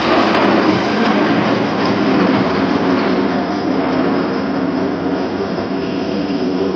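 F/A-18E Super Hornet jet engines (General Electric F414 turbofans) passing, a loud steady roar that eases off slightly in the second half.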